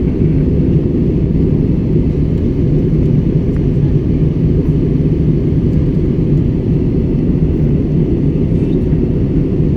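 Steady cabin noise of a passenger airliner in flight: a constant low rumble of engines and airflow heard from inside the cabin.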